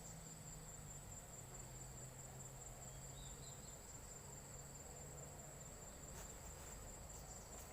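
Crickets chirring in a faint, steady, high-pitched trill, with a couple of faint clicks near the end.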